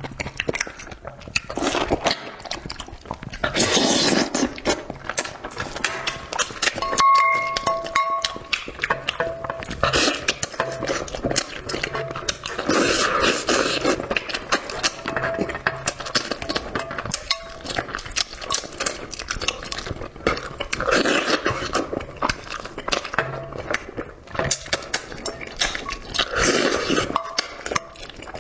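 Close-miked eating: wet chewing, sucking and slurping of braised spicy fish and meat, with many small irregular clicks and smacks.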